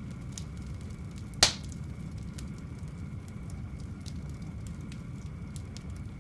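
Wood fire burning in a fireplace: a steady low rumble with scattered small crackles, and one loud sharp pop about a second and a half in.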